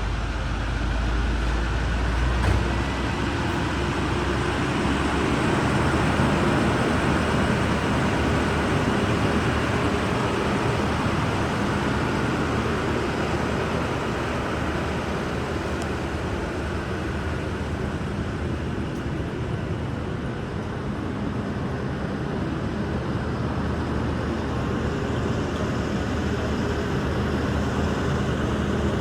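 Heavy vacuum truck running steadily, a broad rushing mechanical noise with a deep hum in the first couple of seconds that then drops away.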